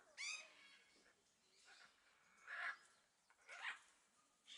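Hyacinth macaw calling: a short pitched call just after the start, then three harsh squawks about a second apart.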